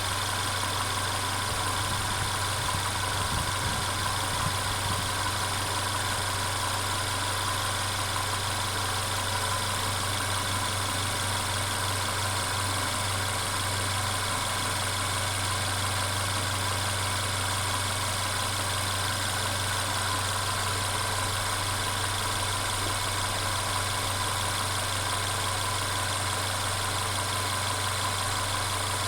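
Mercedes-Benz CLA 250's turbocharged four-cylinder engine idling steadily, with the continuous rattling noise its owner is documenting as a fault.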